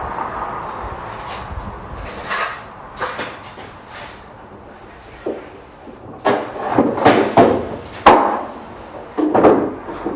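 Irregular knocks and clatters of work in a garage, getting busier in the second half, with one sharp bang about eight seconds in.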